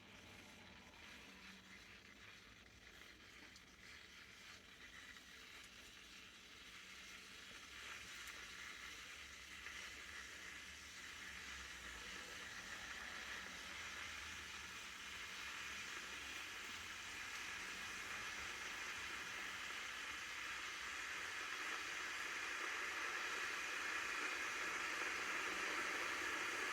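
Electric kettle heating water: a hiss that grows steadily louder as the water heats towards the boil.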